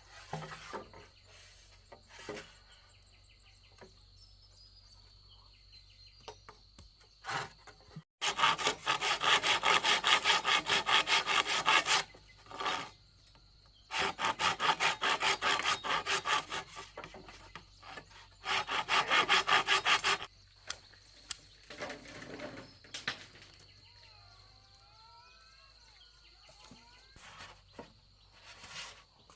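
Wood being sawn by hand, in three spells of quick, even back-and-forth strokes, each a few seconds long. There are a few scattered knocks between the spells.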